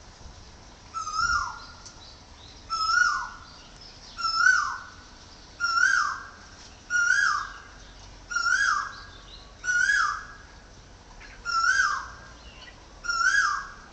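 A bird calling over and over, nine times at an even pace of about one call every second and a half. Each call is a short held note that slides down at its end.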